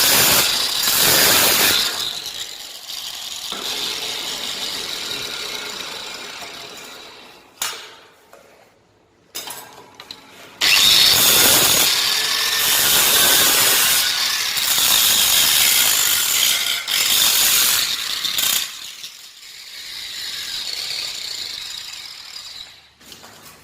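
Angle grinder cutting away a previously welded steel piece, run twice: a short cut at the start that winds down over several seconds, then a longer cut of about eight seconds that winds down near the end.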